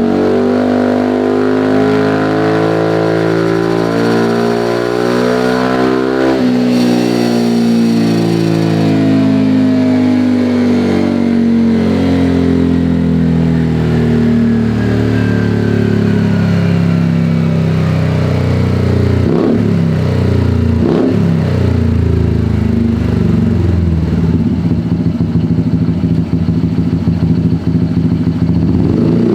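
Automatic scooter's single-cylinder engine breathing through an EvoX STD aftermarket exhaust with the DB killer removed, revved up for about six seconds, then falling slowly back. Revs settle to a rough, pulsing low-rev beat near the end, with a couple of sharp knocks just before.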